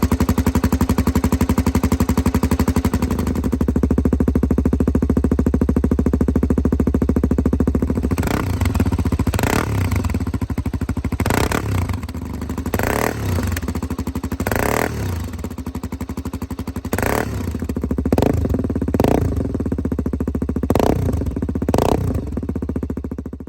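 Honda XR250's single-cylinder four-stroke engine idling through a Delta aftermarket muffler fitted with a restrictor, then revved in about ten short throttle blips, one every second or two, starting about a third of the way in; the sound cuts off suddenly at the end.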